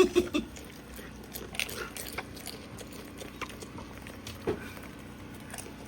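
Goats chewing and crunching food, with scattered short crunches and clicks.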